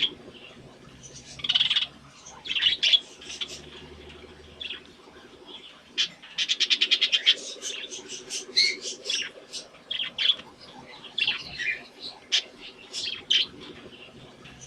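Budgies chattering and chirping: many short, irregular high chirps and warbles, with a fast run of evenly spaced chirps, about ten a second, around six to seven seconds in.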